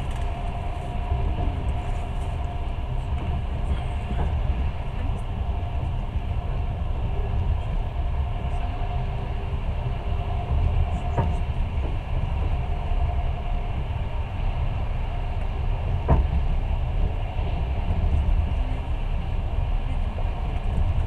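Passenger train running along the line, heard from inside the carriage: a steady low rumble of wheels on rail, with two sharp clacks about eleven and sixteen seconds in.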